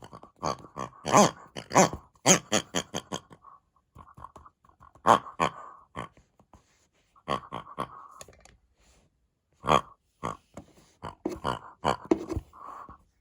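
A string of short pig-like grunts and oinks, coming in quick irregular clusters with brief pauses between them.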